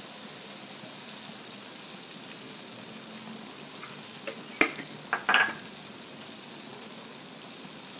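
Chayote and carrot stir-fry sizzling steadily in a wok, with one sharp knock a little past halfway and a short clatter just after.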